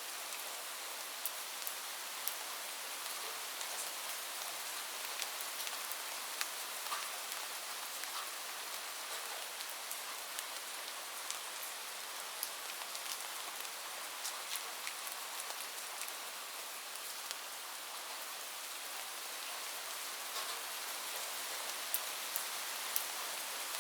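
Steady heavy rain on a roof: an even hiss with scattered sharp ticks of single drops striking close by.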